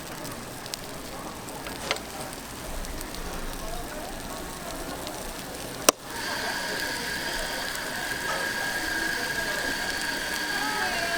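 Metal clicking and clacking of bungeoppang molds being worked, with one sharp clack about six seconds in, after which a steady high-pitched whine sets in.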